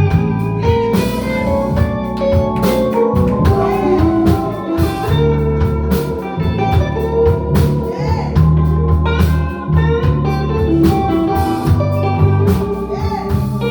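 Blues band playing live, with guitar over bass and drums keeping a steady beat.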